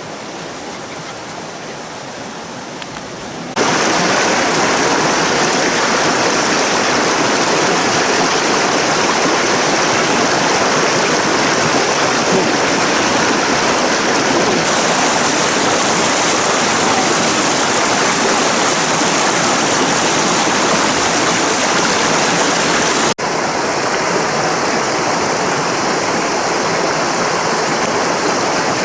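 Rushing river water: a loud, steady hiss of flowing water that jumps abruptly louder about three and a half seconds in and breaks sharply again about 23 seconds in.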